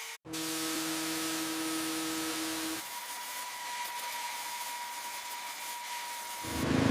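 Pressure washer spraying, a steady high hiss with a motor hum under it; the sound shifts at about three seconds in, and near the end a much louder low rumble starts over it.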